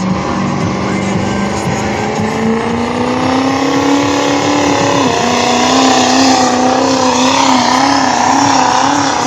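A pulling vehicle's engine running hard under load. Its pitch climbs steadily over the first few seconds, dips sharply for a moment about five seconds in, then holds high with a wavering, bouncing pitch.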